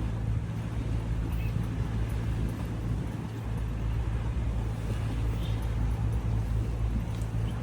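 Steady low drone of a motor vehicle running, an even hum with rumble and no sharp events.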